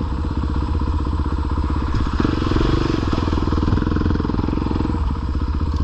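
Dirt bike engine running at low, fairly steady revs while trail riding.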